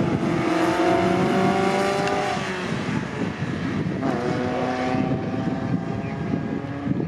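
Vintage racing car engines passing at speed: one car's engine note drops in pitch over the first couple of seconds, and a second car comes by about four seconds in, its note also dropping as it goes past.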